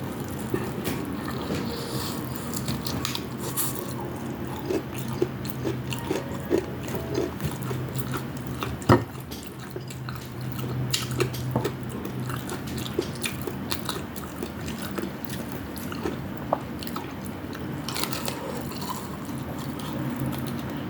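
Close-miked chewing and crunching of deep-fried food, with many short sharp clicks and one louder snap about nine seconds in, over a steady low hum.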